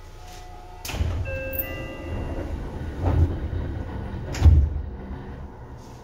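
Inside a Seibu 2000-series electric train car, above the underfloor line breaker: a sharp clack about a second in, then low rumble, with two heavier clunks at about three and four and a half seconds.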